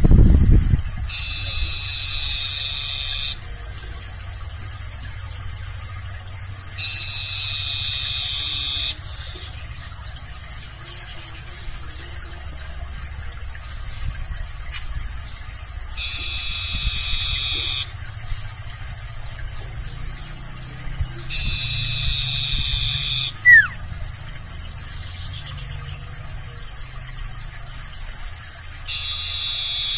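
Sirtu (cipoh) songbird calling with a buzzy, high trilling phrase of about two seconds, repeated roughly every five to seven seconds, under a low steady hum. A thump sounds at the start, and a short falling squeak comes a little after two-thirds of the way through.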